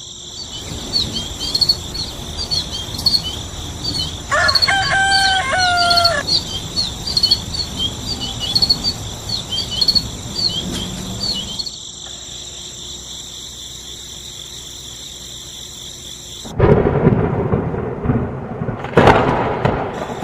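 Outdoor ambience of high, rapidly repeating bird chirps over a steady hiss, with a crowing call about four seconds in, like a rooster. From about sixteen seconds on comes a loud rumbling noise, like thunder.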